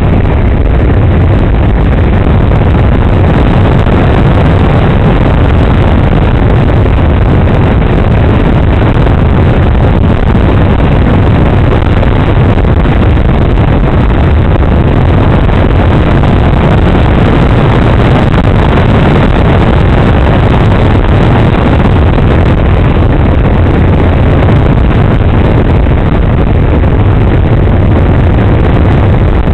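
Radio-controlled Kadet model airplane in flight, heard from a camera on its wing: a loud, steady rush of motor and wind noise that never lets up.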